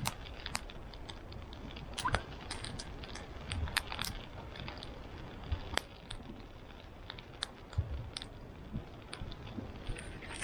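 Wood campfire crackling: irregular sharp pops and snaps scattered throughout, with a few dull knocks.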